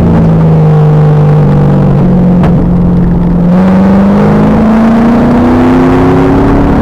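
2000 Pontiac Trans Am Firehawk's 5.7-litre LS1 V8, heard through heavily overloaded, distorted audio. The engine note drops off, holds low for a couple of seconds with a brief click about two and a half seconds in, then climbs steadily as the car accelerates hard.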